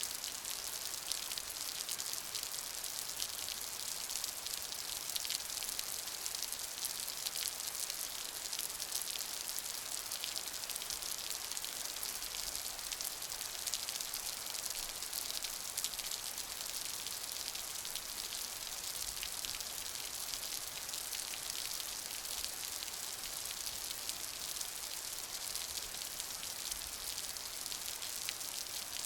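Steady rain falling, a constant hiss of many fine drop patters.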